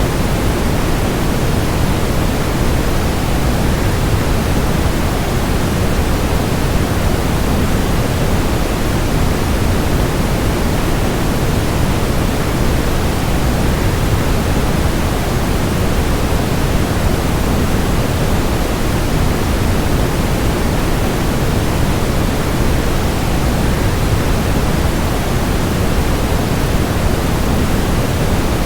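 Steady rush of a waterfall mixed with white noise: an even, unchanging hiss, heaviest in the low end.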